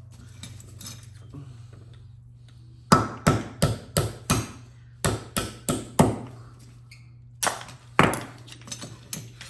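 Hammer blows on a steel punch, driving a pin out of a Graco 5900 airless paint sprayer: a dozen or so sharp metallic strikes in quick runs, starting about three seconds in.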